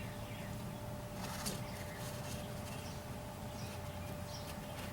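Birds chirping in short falling calls over a steady low background hum, with a faint click about a second and a half in.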